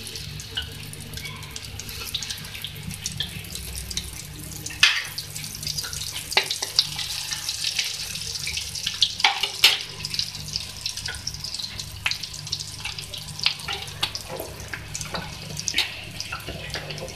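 Fish shami kababs frying in shallow hot oil in a pan: a steady high sizzle with scattered crackles and pops, and a few louder sharp snaps about five and ten seconds in. A low steady hum runs underneath.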